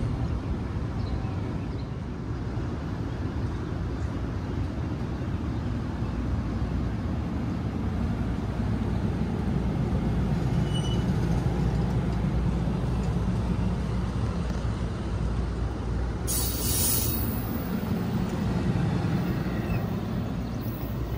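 NJ Transit commuter train running at the station platform with a steady low rumble. A short burst of hiss comes about three quarters of the way through.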